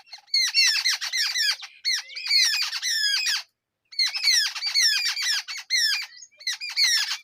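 Nestlings giving shrill begging calls in fast runs of short, falling notes, several a second, in three bouts broken by brief pauses.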